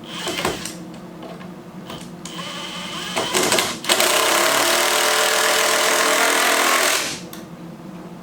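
Power drill driving a screw: a short, uneven burst about two and a half seconds in, then a steady run of about three seconds that stops abruptly near the end.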